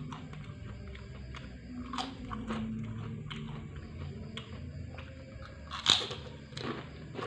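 Close-up chewing and crunching of crisp food in the mouth, several crunchy bites, with the loudest one about six seconds in.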